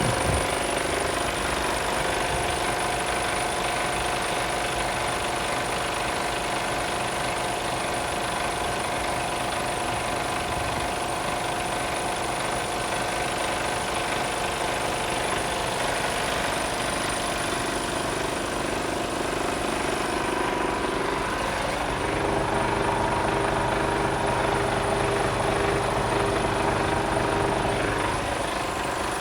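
Mercedes Actros 1840 truck's 400 hp Euro 6 straight-six diesel idling steadily. About two-thirds of the way through, its note steps up slightly and gets a little louder.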